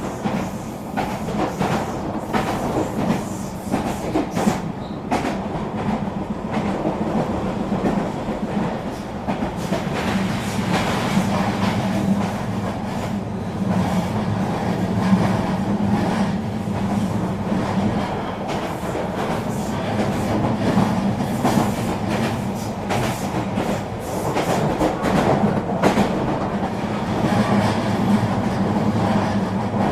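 Eurobahn regional train running along the track: a steady rolling rumble with a constant low hum and irregular clicks from the wheels over the rails.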